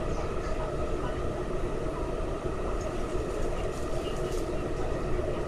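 Running noise inside a car of an MTR West Rail Line SP1900 electric train between stations: a steady rumble of wheels on rail with a steady whine on top.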